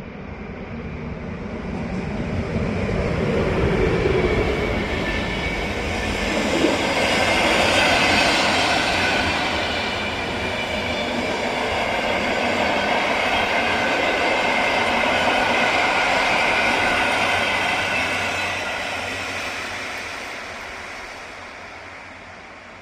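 Electric locomotive-hauled train passing by, with the rumble and clatter of wheels on the rails. It swells over the first few seconds, stays loud while the cars go by, and fades away near the end.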